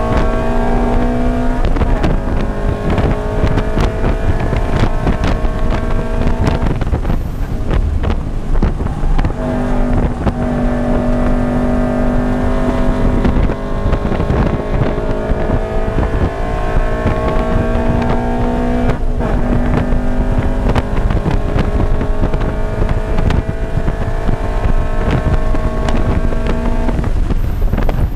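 2013 Scion FR-S's 2.0-litre flat-four with an aftermarket header, heard from inside the cabin at high revs under throttle. The engine note climbs slowly in pitch through several long pulls and drops back briefly between them, over heavy road and wind noise.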